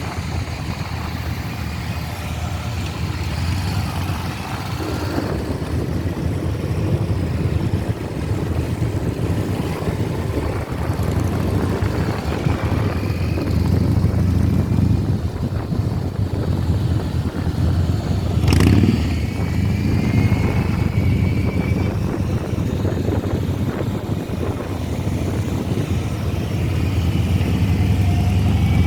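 Many motorcycles riding together in a large group, their engines giving a steady low drone, with a few short rising whines and a single sharp pop about two-thirds of the way through.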